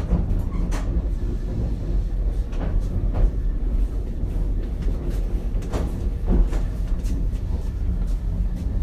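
Interior running sound of the Ichibata Electric Railway 7000-series railcar 7001: a steady low rumble with scattered clicks and knocks from the wheels and car body as the train comes into a station.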